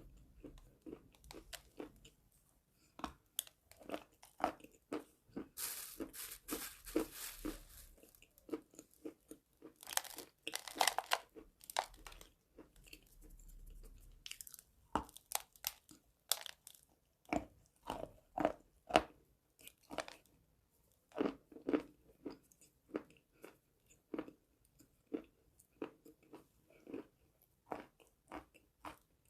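Close-miked crunching and chewing of dry eating chalk: many crisp bites and crunches, with two longer stretches of crumbling grind about a quarter and a third of the way in.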